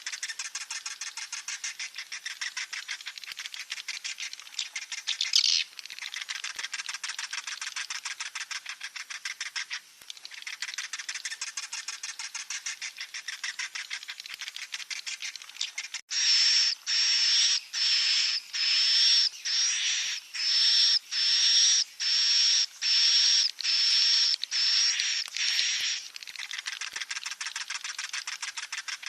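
Swiftlet chicks calling: dense, fast, buzzy chittering. Just past halfway it gives way to a run of about fourteen louder, separate high-pitched calls, and near the end the chittering returns.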